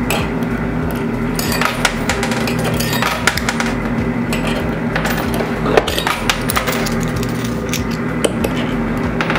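Quarters clicking and clacking as they drop into a coin pusher and land on its moving shelf. Sharp metallic clicks come every second or so over the machine's steady electrical hum.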